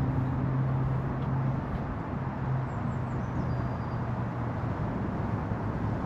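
Outdoor rumble and hiss with a steady low engine hum, like distant motor traffic, that fades about four and a half seconds in. A faint high bird chirp comes about three seconds in.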